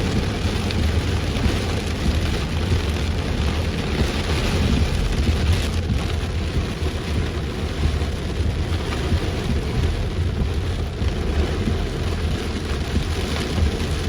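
Heavy rain pouring steadily, with the low rumble of a vehicle being driven through it.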